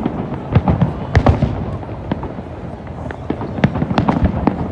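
Aerial fireworks shells bursting: an irregular string of sharp bangs and cracks over a steady rumble, bunched in two busy clusters, one about a second in and one near the end.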